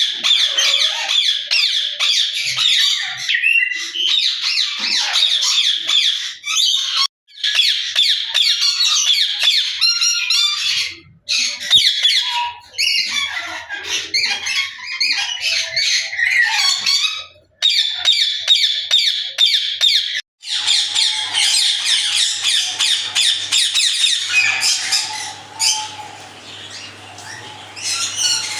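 Parrots chattering and squawking together in a dense, continuous din of high calls, broken off abruptly several times. Near the end the chatter thins and a low steady hum shows beneath it.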